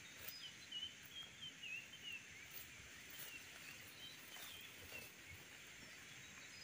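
Faint chirping of small birds: many short, squeaky calls scattered over a quiet outdoor hiss.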